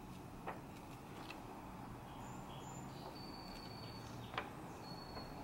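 Quiet room tone with faint, short high-pitched bird chirps and a couple of soft clicks, the sharpest one near the end.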